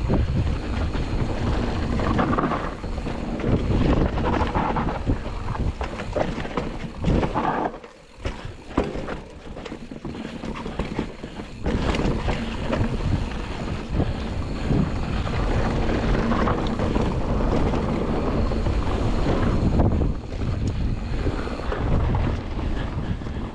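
Mountain bike descending an enduro trail at race speed: wind buffeting the action camera's microphone over tyres running on dirt and rock, with frequent knocks and rattles from the bike. It drops quieter for a few seconds about a third of the way through.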